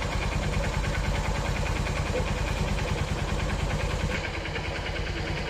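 Small motorcycle engine running on compressed natural gas (CNG), idling with a steady, even beat. Its tone shifts slightly about four seconds in.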